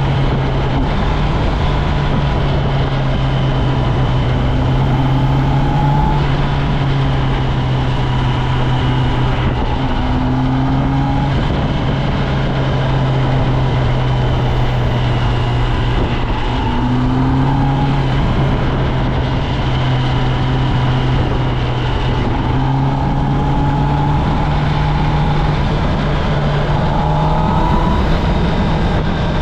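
2024 Kawasaki Ninja ZX10R's 998 cc inline-four on its stock exhaust, running at a fairly steady engine speed while riding, its pitch drifting only slightly up and down. A constant rushing noise runs underneath.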